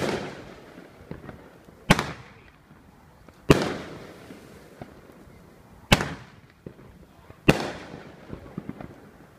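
Consumer fireworks going off: five loud bangs at irregular intervals of roughly one and a half to two and a half seconds, each followed by a fading rumble, with scattered smaller pops in between.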